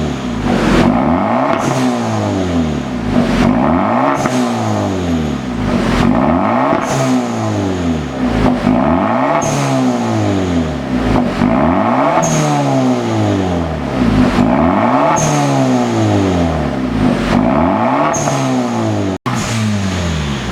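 Hyundai Avante Sport's 1.6 T-GDI turbocharged four-cylinder revved repeatedly through an aftermarket dual variable exhaust, each blip rising and falling about every one and a half seconds. There is a brief break near the end.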